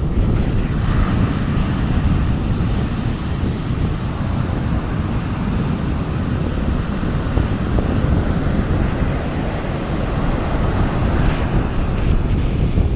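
Soft sea waves washing onto a beach, swelling and falling, with wind buffeting the microphone as a steady low rumble.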